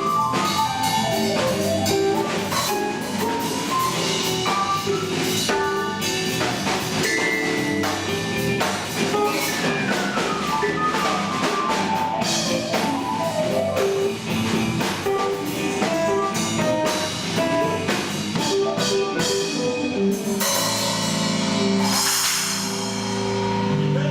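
A band playing with drum kit and guitar: a steady drum beat under running melodic guitar and bass lines. About twenty seconds in it closes on a held chord with a cymbal wash ringing over it.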